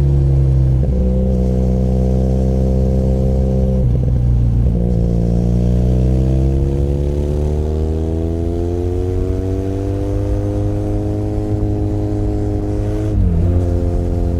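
Benelli Leoncino 500 Trail's parallel-twin engine running under way. Its pitch shifts in short breaks at about one and four seconds in, like gear changes. It then climbs slowly for several seconds as it accelerates, and dips briefly near the end.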